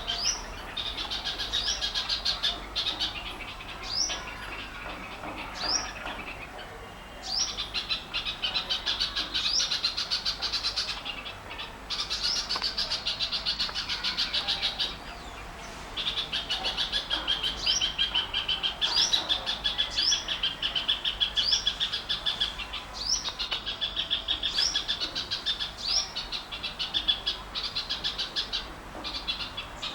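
Many small birds chirping together in a dense, rapid chatter, with a short rising whistle note repeated about every second or so. The chatter breaks off briefly a few times.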